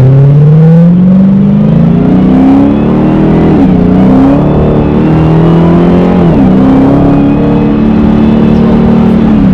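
Dodge Challenger SRT Hellcat's supercharged 6.2-litre V8 under hard acceleration, heard from inside the cabin. The engine pitch climbs, drops with an upshift about three and a half seconds in and again about six seconds in, then climbs more slowly. A faint high supercharger whine rises with it.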